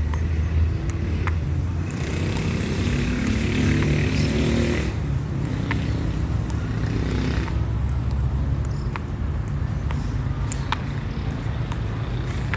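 Table tennis ball clicking sharply against paddles and table at irregular intervals, a rally of light taps, over a steady low rumble.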